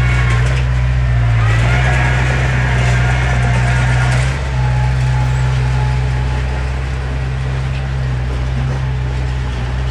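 Heavy earthmoving machinery's diesel engine running steadily with a low drone, and a higher whine that rises about a second and a half in and fades out about four seconds in.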